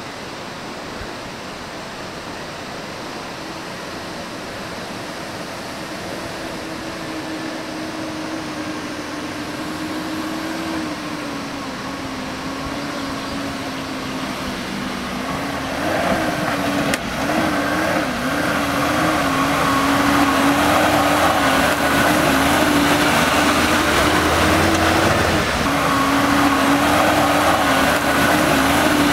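An SUV's engine running with a steady hum that wavers in pitch. Road and tyre noise grow louder over the second half.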